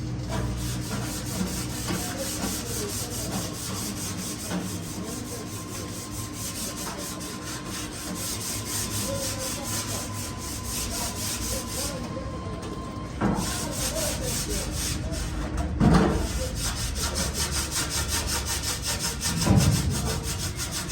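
Rapid, steady back-and-forth rubbing, like sanding a car door panel, with a short pause about twelve seconds in and a few louder knocks later on.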